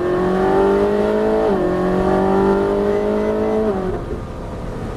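Car engine accelerating at full throttle, its pitch climbing steadily, with two automatic upshifts where the revs drop sharply: about a second and a half in and again nearly four seconds in. Near the end the engine eases off and gets quieter.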